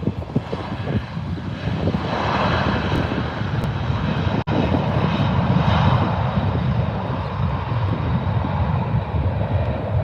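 Airplane engines passing nearby: a steady rush with a low rumble that swells about two seconds in and holds.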